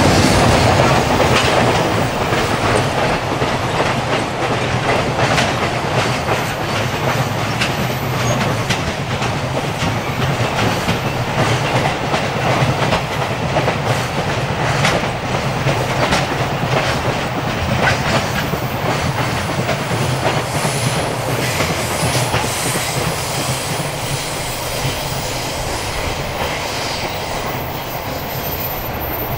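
Container freight train hauled by a JR Freight EH500 AC/DC electric locomotive rolling past, with the rumble and clickety-clack of wagon wheels over rail joints. It is loudest at the start as the locomotive passes and slowly grows quieter as the container wagons go by and the train draws away.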